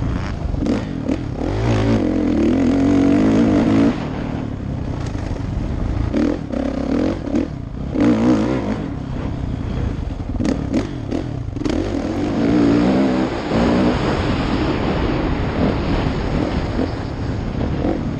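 Kawasaki KX450F dirt bike's single-cylinder four-stroke engine running under load while riding, its revs rising and dropping again and again. Wind rushes over the camera microphone through the second half, with scattered knocks from the ride.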